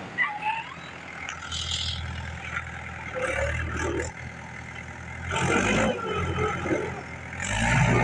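Mahindra Bhoomiputra 415 tractor's diesel engine running steadily, with louder noisy bursts about five seconds in and again near the end.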